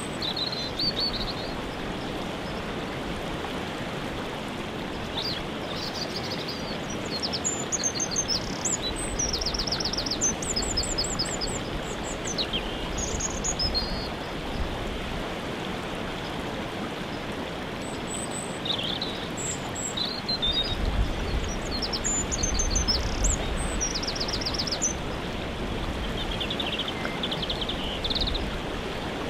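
Steady rush of a waterfall, with songbirds chirping and trilling over it in several short high bouts. A low rumble rises under the water noise about two-thirds of the way through.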